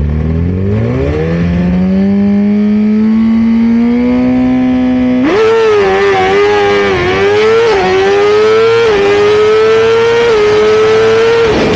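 Suzuki GSX-R 1000 inline-four with an aftermarket Brock's Performance exhaust, run hard on a drag-strip pass. The engine note climbs sharply off the line and keeps rising, then drops briefly several times as the rider foot-shifts up through the gears.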